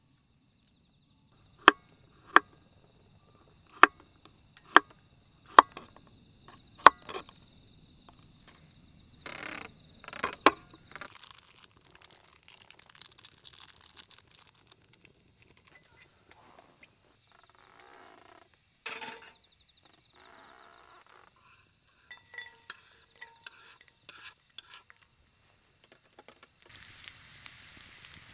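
Metal cookware and utensils clinking and knocking, with six sharp knocks in the first seven seconds and quieter handling after. Near the end, food starts sizzling in a hot pan. A steady high insect trill runs underneath at times.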